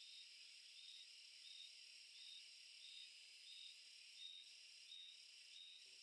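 Faint forest insect chorus: a steady high buzz, with a short high chirp repeating evenly about every 0.7 seconds.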